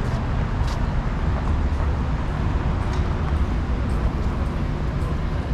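Street ambience dominated by the steady low rumble of slow-moving traffic engines, with a few faint ticks.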